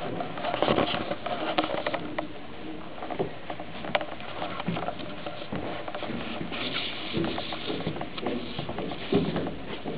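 Footsteps and scuffs on the ship's lower deck, with irregular clicks and knocks.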